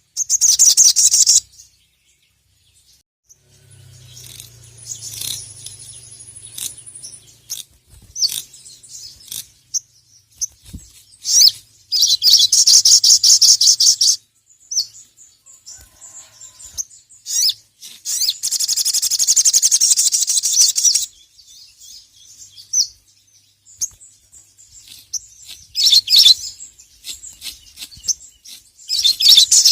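Sogok ontong (sogon), the little spiderhunter, singing: loud bursts of a very fast, high rattling trill, each lasting two to three seconds and coming back about five times, with softer single chirps in between.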